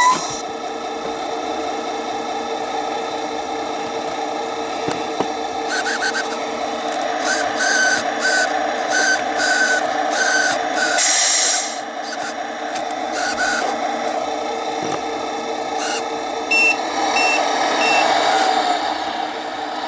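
Tamiya Scania 770S radio-controlled truck running with a steady motor and gear whine. Its sound unit plays a run of reversing beeps, about two a second, through the middle, with a short air-brake hiss just after them and a few higher beeps near the end.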